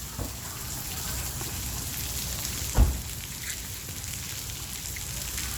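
Steady rain falling: an even hiss with scattered drip ticks, and one low thump about halfway through.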